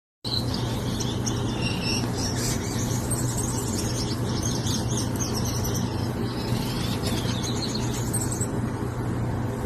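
Several small birds chirping and twittering rapidly over a steady low hum and rumble, with the sound starting abruptly just after the start.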